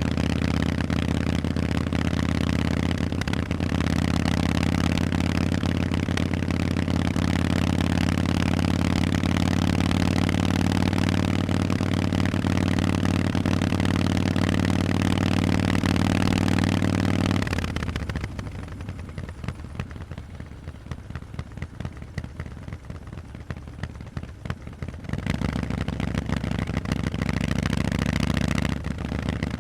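Harley-Davidson Forty-Eight's air-cooled V-twin engine through Vance and Hines exhausts, running with a steady deep note. About seventeen seconds in, the exhaust note falls away sharply for roughly seven seconds, leaving a thinner, quieter sound, then the engine note comes back.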